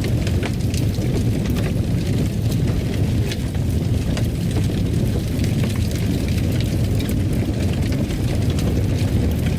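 Fire burning in a fireplace: a steady low rumble with frequent, irregular small crackles and pops.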